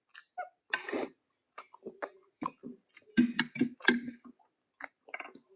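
A person eating close to the microphone: irregular soft mouth clicks and chewing sounds, busiest about three to four seconds in.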